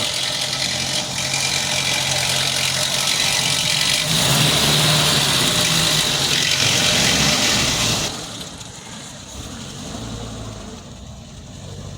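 Ford Del Rey's CHT four-cylinder engine running, louder for the first eight seconds and then dropping quieter. The timing-chain rattle appears to have stopped after the fix; the noise that remains is the ordinary CHT engine noise, not the chain, as the owner takes it.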